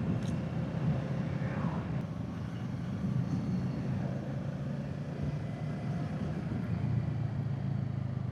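Kawasaki Z650's parallel-twin engine running steadily on the road through its stock exhaust, with wind rush on the microphone.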